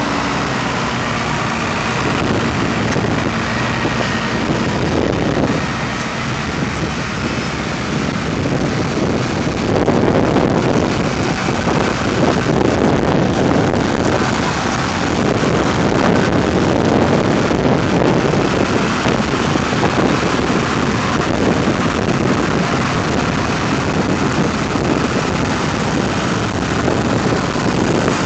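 Vintage tractor engines running steadily, with wind buffeting the microphone; the engine noise grows louder about ten seconds in.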